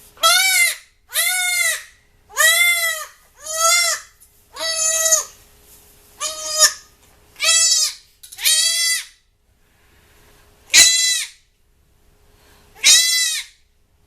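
Young goat kid (doeling) bleating loudly and repeatedly, about ten high, arching cries in quick succession: distress calls while her horn buds are burned with a hot disbudding iron.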